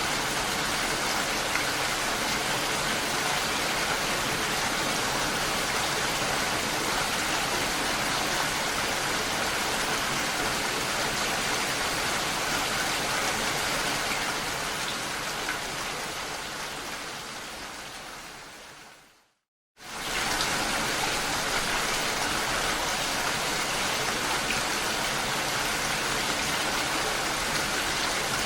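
Steady rain falling, a dense even hiss. About two-thirds of the way in it fades out over several seconds to a brief moment of silence, then comes back abruptly at full level, the sign of a recording being looped.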